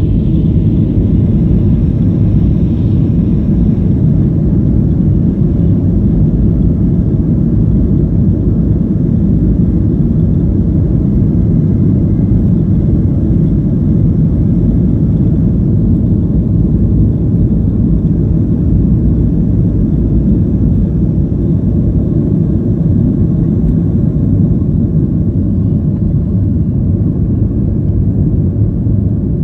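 Boeing 737-800's CFM56-7B jet engines at high take-off thrust, heard from inside the passenger cabin as a steady, loud low rumble.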